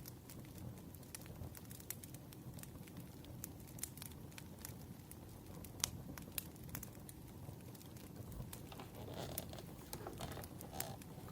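Wood fire crackling: irregular sharp pops and snaps over a low steady hiss of burning logs, with a soft rustle about nine seconds in.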